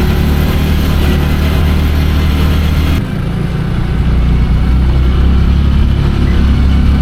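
Polaris side-by-side's engine running steadily while driving, a loud low drone. About three seconds in, a high hiss drops away and the engine drone grows louder.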